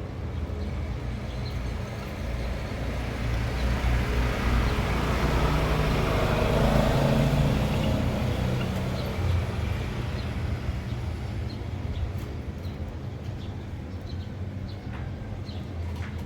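A motor vehicle passing on a road, its engine hum and tyre noise swelling to a peak about seven seconds in and then fading.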